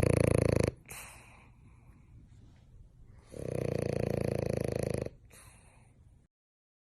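Dog snoring: two long, loud snores a few seconds apart, then the sound cuts off to silence near the end.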